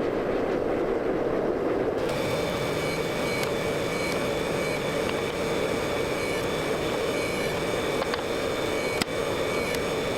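A steady, loud mechanical roar with no rhythm. A faint high whine joins it about two seconds in, and there is one sharp click near the end.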